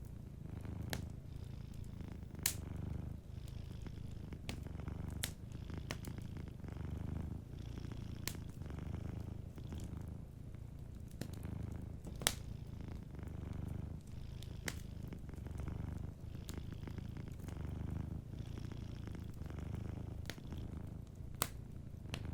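Domestic cat purring in a low rumble that swells and eases with each breath, every second or two. Over it a wood fire crackles, with occasional sharp pops.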